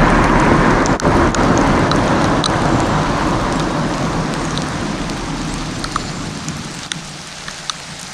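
Heavy rain falling as a dense steady hiss, with scattered sharp drop ticks, fading gradually.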